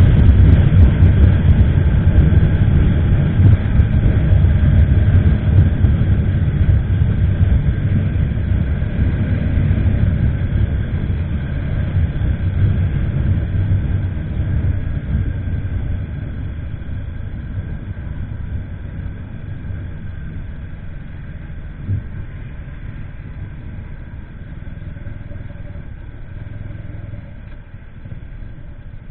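Wind rushing over a helmet-mounted action camera's microphone on a moving motorcycle, with the engine running beneath it, growing steadily quieter.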